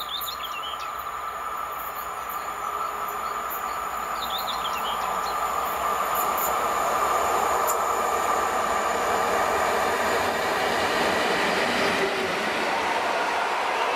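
EU07 electric locomotive hauling a passenger train, approaching and passing close by. The rolling noise of wheels on rail grows steadily louder over the first half, then holds steady as the locomotive and coaches go past.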